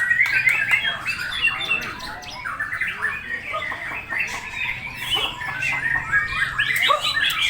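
Songbirds chirping and chattering rapidly without a pause, many short quick calls overlapping.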